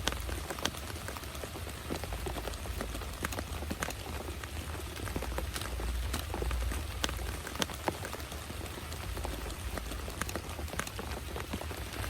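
Heavy rain falling steadily, with many sharp single drop impacts ticking out over the hiss and a low rumble underneath.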